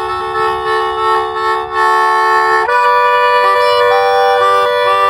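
Accordion playing held chords, switching to a new chord about two and a half seconds in, then short repeated notes over the held tones.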